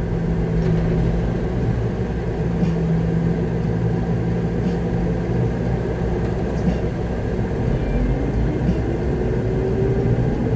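Concrete mixer truck's diesel engine running steadily, a low rumble and hum heard from inside the cab, with faint ticks about every two seconds.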